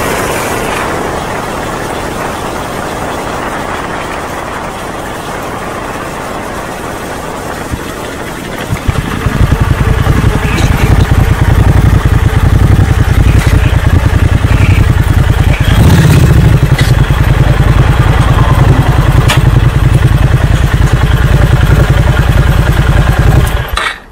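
Honda Magna 250's V-twin engine running close by, a low, evenly pulsing rumble that becomes much louder about nine seconds in and cuts off abruptly near the end.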